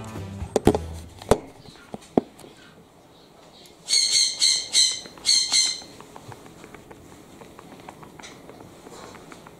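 A pet parrot squawking four times in quick succession, loud, about four seconds in, after a few sharp knocks.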